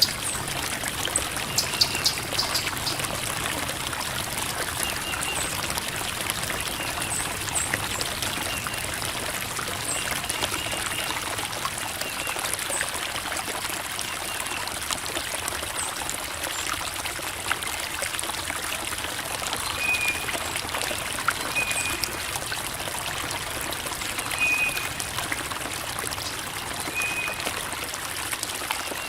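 Creek water babbling and trickling over rocks in a steady flow, with brief high chirps now and then.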